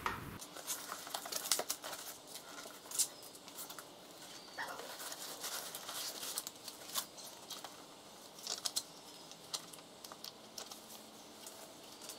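Cardboard shipping box and foam packing being handled: flaps folded back and a foam tray of parts lifted out and set down, giving scattered quiet rustling, crinkling and light knocks.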